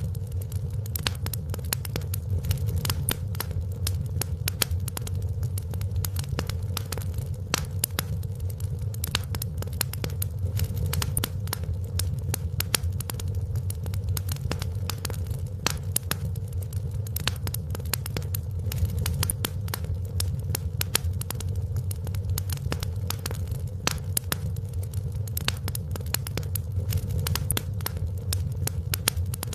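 Wood fire crackling in a fireplace: a continuous low rumble of the flames with many sharp, irregular pops and snaps.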